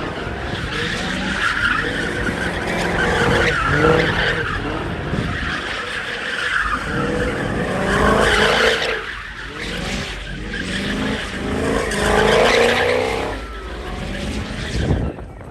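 A car's engine revving hard while its tires spin and screech on the pavement in a burnout. The squeal and engine swell and fade in waves about every four seconds.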